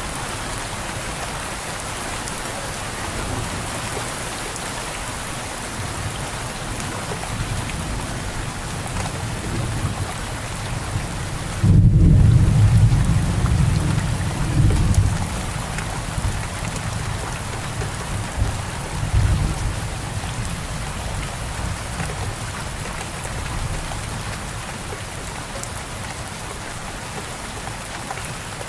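Steady rain falling. About twelve seconds in, a sudden loud low rumble of thunder lasts a few seconds, and a weaker rumble follows a few seconds later.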